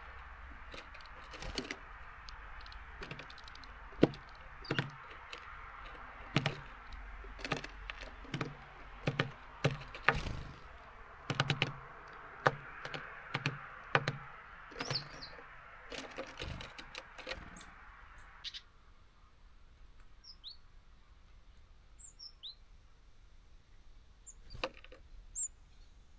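Small birds feeding at a seed feeder: a long, irregular run of sharp taps and knocks from beaks and feet on the feeder and seeds, over a steady hiss that stops about eighteen seconds in. After that, a few brief high chirps.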